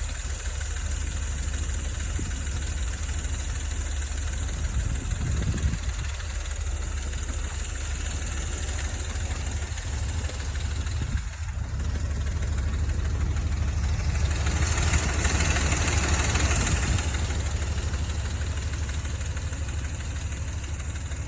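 Dodge Ram 4.7-litre V8 idling steadily when warm, with the lifter tick and chatter that the owner is trying to quiet. A rush of hiss swells and fades about fifteen seconds in.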